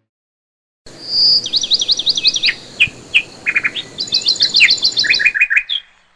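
Birds chirping in a rapid series of high, down-slurred notes and short trills over a faint outdoor hiss. It starts about a second in and stops shortly before the end.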